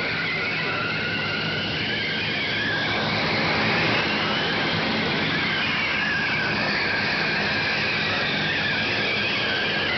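A speeding car's engine, heard as a high whine that glides up and then back down in pitch over a steady rushing noise, slightly louder about three to four seconds in.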